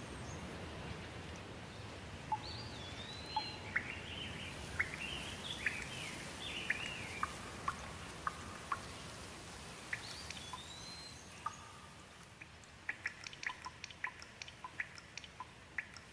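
Steady rain hiss that slowly eases off, with a bird singing short whistled notes that glide up and down through the first two-thirds. Near the end, sharp drips fall irregularly, a few every second.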